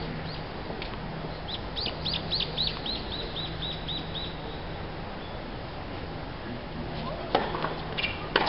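A bird calls a run of about ten quick, falling chirps that fade away. Near the end come two sharp racket-on-ball hits about a second apart: a tennis serve and its return.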